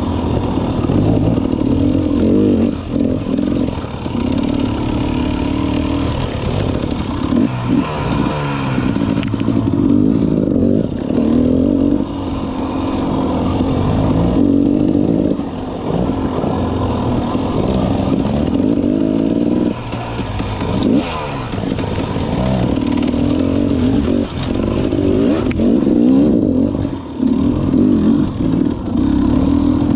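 Two-stroke dirt bike engine revving up and down over and over as the throttle is worked, its pitch climbing and falling with short drops where the throttle closes.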